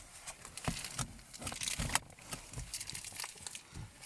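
Plastic packaging crinkling and rustling as it is handled close by, with irregular crackles and soft taps.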